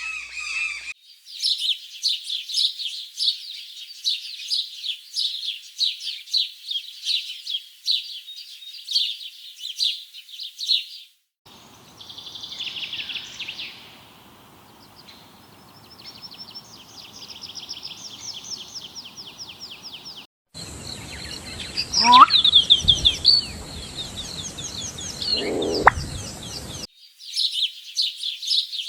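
Birds chirping in rapid, high-pitched runs, in several short clips cut together. One clip holds louder calls.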